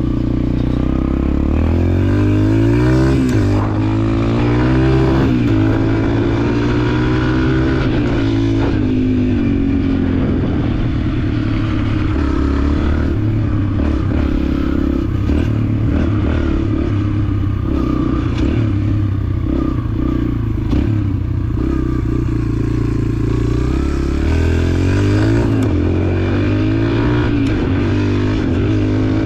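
Dirt bike engine under way, its pitch climbing and dropping again and again as the throttle opens and closes through the gears, with scattered knocks and rattles from the bike over rough ground.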